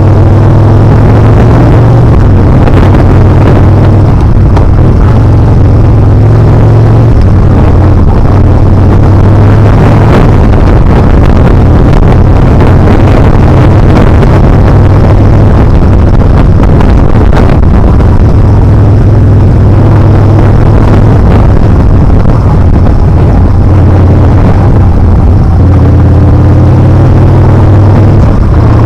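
Yamaha Bolt R-spec's air-cooled V-twin engine running loudly under way on a winding downhill road, its note shifting now and then as the throttle changes, with wind noise over the microphone.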